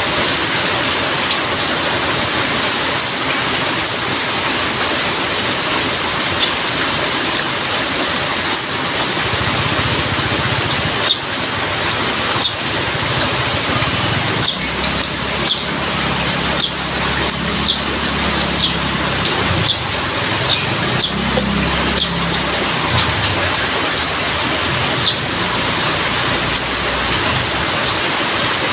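Heavy rain falling steadily, with about a dozen sharp drop-like taps in the middle stretch and a low rumble underneath for several seconds.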